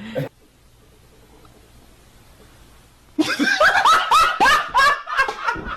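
Loud laughter breaking out about three seconds in, in short, choppy bursts after a quiet lull.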